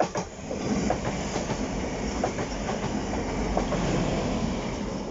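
Class 185 diesel multiple unit passing close by: a steady rolling noise of wheels on rails, scattered with short clicks from the wheels over the track.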